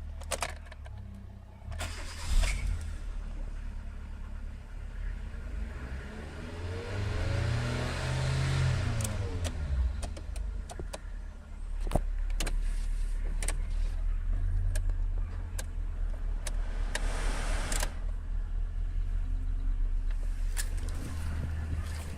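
Kia Rio 2's G4EE 1.4-litre four-cylinder petrol engine running at idle, revved up and back down once about a third of the way in. Sharp clicks sound now and then over the running engine.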